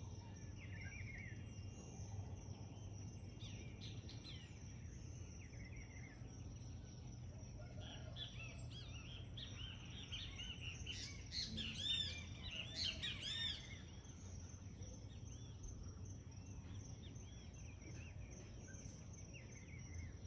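Dawn chorus of birds chirping and calling, with a dense run of rapid, louder chirps a little past the middle, over a steady high-pitched hiss and a low hum.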